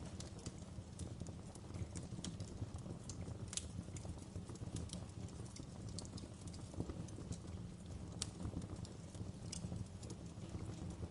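Wood fire in a fireplace crackling, with irregular sharp pops and snaps, a few louder ones, over a steady low rumble.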